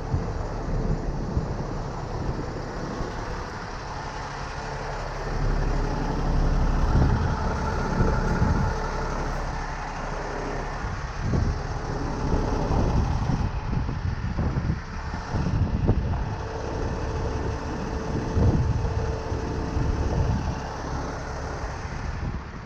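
Heavy truck's diesel engine running, its sound swelling and easing several times.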